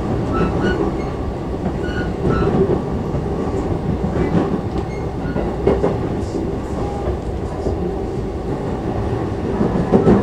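JR E233-5000 series electric commuter train heard from inside the passenger car, running with a steady rumble of wheels on rail and a few clacks over rail joints as it comes in to a station stop.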